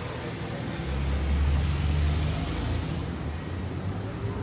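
A motor vehicle driving past on the street: a low engine rumble swells about a second in and fades, over steady traffic noise.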